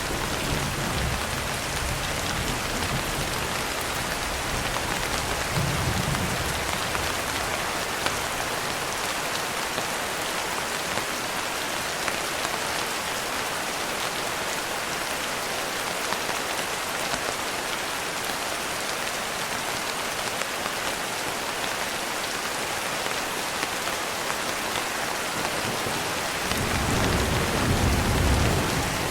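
Steady rain falling as an even hiss, with low rumbles of thunder under it: briefly at the start and about six seconds in, then a longer rumble building in the last few seconds.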